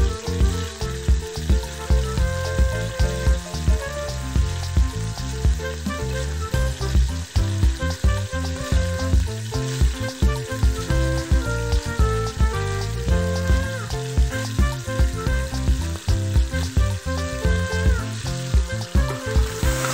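Raw chicken pieces sizzling and frying in hot oil in a steel pot, over background music with a steady beat.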